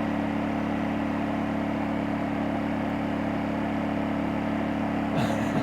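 Champion 2000-watt dual fuel inverter generator (model 100900) running steadily with an even, quiet hum.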